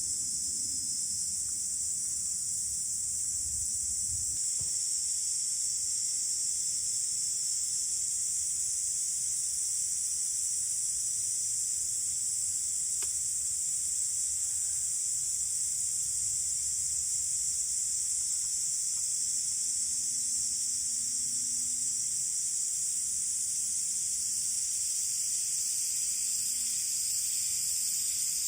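Steady chorus of insects, a continuous high buzz that holds at one level, with a single faint click about halfway through.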